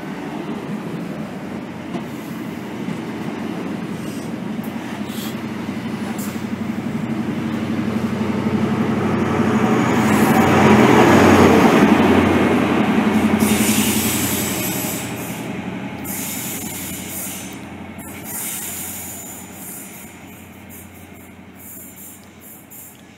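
CrossCountry Voyager diesel multiple unit pulling out past the platform edge. Its underfloor diesel engines and wheels on the rails swell to a loud peak about halfway through as the rear cab goes by, then fade away.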